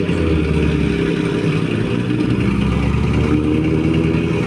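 Rally car engine running at the start line, with the revs wavering up and down.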